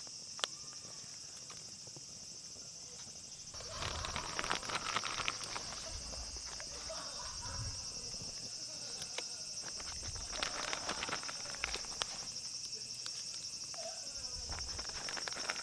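Insects trilling steadily. From about four seconds in, bursts of clicking and knocking handling noises come and go over it.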